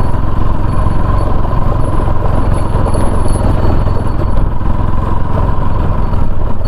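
Motorcycle running steadily while being ridden, a constant low rumble with a steady hum over it.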